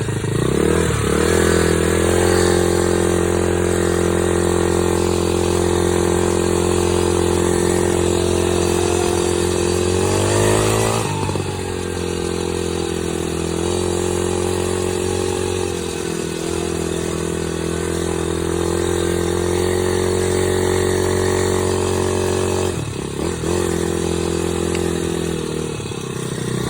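Dirt bike engine running at a steady pitch while being ridden. The pitch changes briefly about a second in, again about ten seconds in, and again near the end as the rider works the throttle.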